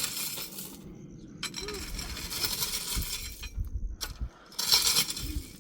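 Gritty scraping and rattling in three bursts, the longest in the middle and a short loud one near the end.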